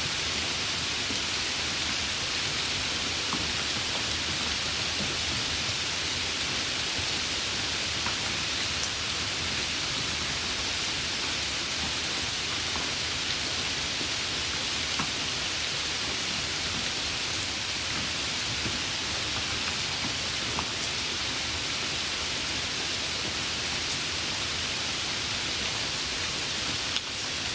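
Steady light rain: an even hiss of falling rain with scattered single drops ticking through it.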